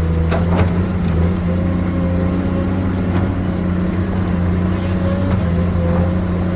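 Excavator engine running steadily at a constant pitch, with a couple of short knocks within the first second.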